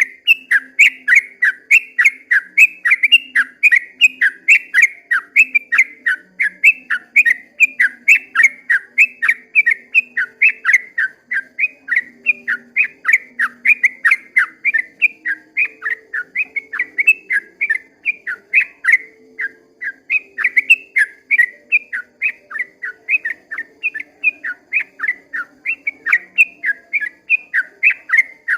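Yellow-vented bulbul (trucukan) singing a long, unbroken run of short, sharp whistled notes, about three to four a second.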